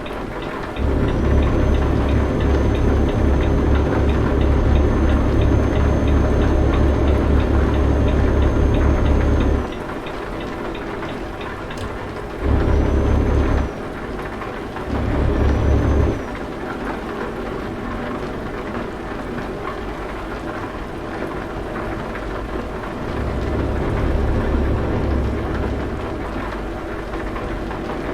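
Heavy truck engine running with a steady low drone that repeatedly swells louder: a long surge lasting most of the first ten seconds, two brief surges a few seconds apart, and a milder rise near the end. A faint high whine accompanies the louder stretches.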